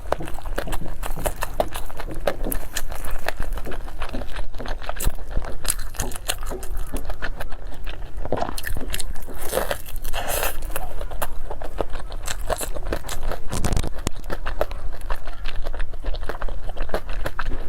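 Close-miked eating: a person biting and chewing crunchy food, with a constant run of small crunches and wet clicks, a few louder crackling bites about halfway through.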